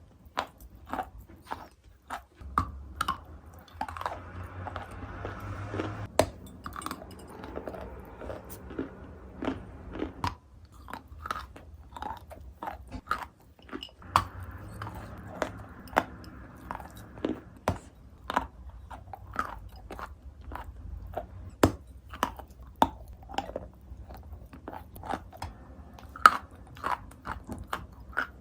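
Close-miked chewing and crunching of wet chalk: sharp crunches come irregularly, a few a second, over softer wet chewing.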